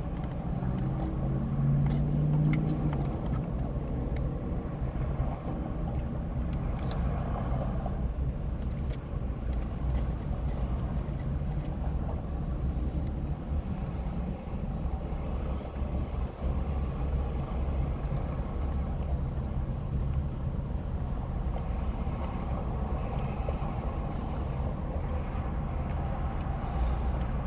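Steady low rumble of a vehicle engine running, with scattered faint clicks over it.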